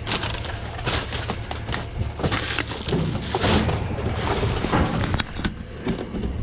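Irregular scraping, rustling and knocking strokes, as of an object being handled and tugged at, over a low steady hum.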